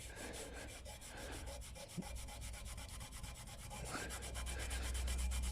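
Cloth rubbing back and forth round a motorcycle exhaust downpipe with Autosol metal polish, scrubbing off tar spots. It goes as a fast, even run of strokes that grows louder toward the end.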